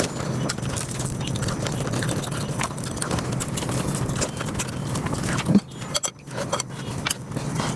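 Close-miked mukbang eating sounds of a Bengali rice-and-curry meal, sped up five times: chewing and wet mouth noises run together into a dense stream of quick little clicks. One louder sharp click stands out about five and a half seconds in.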